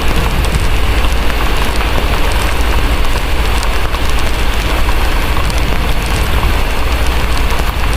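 Heavy steady rain with a deep, constant low rumble underneath and scattered small crackles and ticks, a layered rain-and-fireplace ambience.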